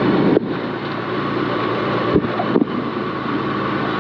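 Mazda 323 rally car's engine idling steadily, heard inside the cabin while it waits at the stage start. A couple of short knocks come a little past halfway.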